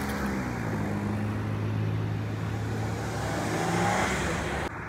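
Arriving jet airliner passing close by on approach, its engines making a loud, steady hum over broad noise, with the engine tones shifting in pitch near the end as it goes past. The sound cuts off suddenly just before the end.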